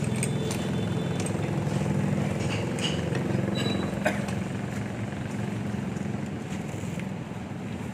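A small engine running steadily at idle, with scattered light metallic clicks.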